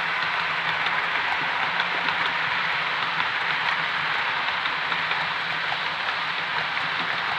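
Model railway train running on the track: a steady whirr of the locomotive's motor and the wheels on the rails, with many light, irregular clicks.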